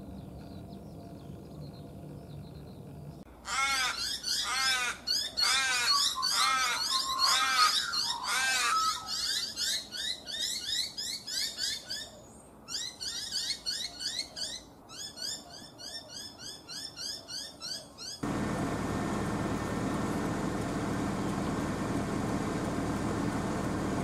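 Wild birds calling loudly for about fifteen seconds, with rapid runs of arched, chirping notes that thin out to fast, high twitters. The calls stop abruptly about eighteen seconds in, when a steady rushing noise takes over.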